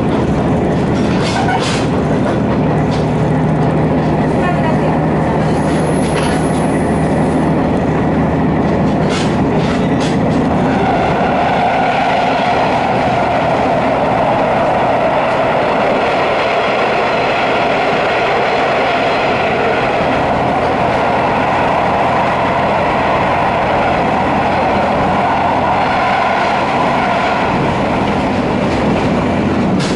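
Diesel railcar heard from inside as it runs along the track, its wheels clicking over rail joints. About ten seconds in, the train enters a tunnel and the running noise turns into a steady, hollow rushing drone, which lasts until the train comes out near the end.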